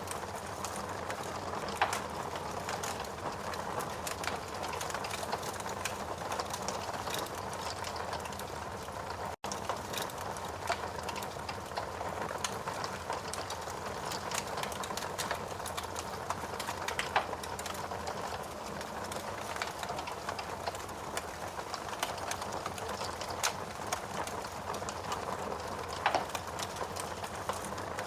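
Steady rain with a wood fire crackling, scattered sharp pops standing out every few seconds.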